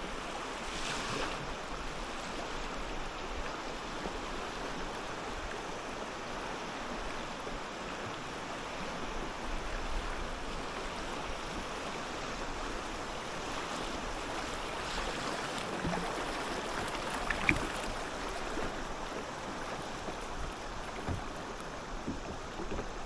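River water flowing and lapping around a kayak, a steady wash with a few brief louder splashes.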